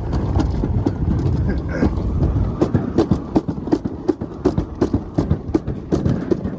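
Ride-on miniature train running along its track: a steady low rumble with the wheels clicking about three times a second.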